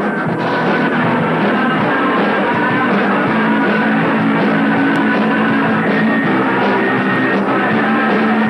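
Heavy metal band rehearsing live: a loud, dense wall of amplified band sound with held notes ringing over it, captured as a lo-fi room recording with dull highs.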